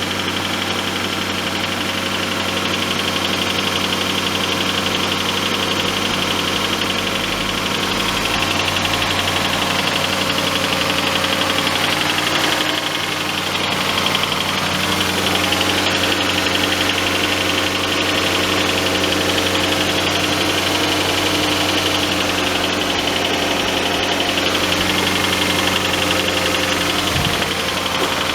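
Nissan Fuga 450GT's VK45DE 4.5-litre V8 running steadily, with the abnormal engine noise the owner reports in the first five minutes or so after a cold start, a noise that rises and falls in step with engine speed.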